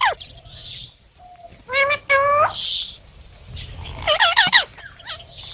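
Indian ringneck parrot calling: two short harsh calls about two seconds in, then a quick run of calls about four seconds in, with a thin high whistle between them.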